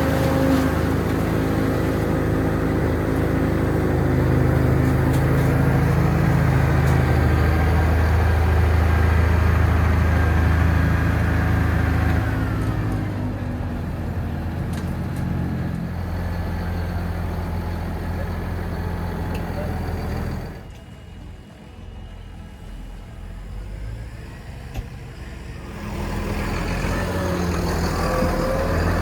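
Heavy farm vehicle's diesel engine running steadily under load. It drops in level about twelve seconds in, goes much quieter for about five seconds two-thirds of the way through, then comes back loud near the end.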